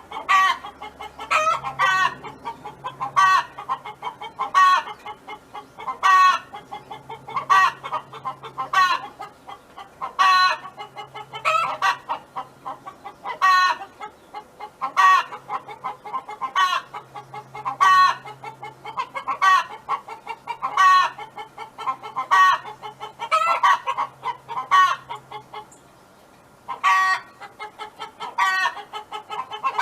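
Domestic hen clucking and calling over and over, loud calls every second or so with softer clucks between, and a brief pause a little before the end.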